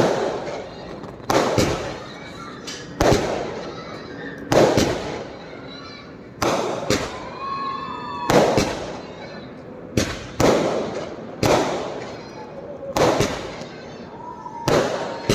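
Fireworks going off: about ten loud bangs in a row, one every one to two seconds, each dying away over about a second.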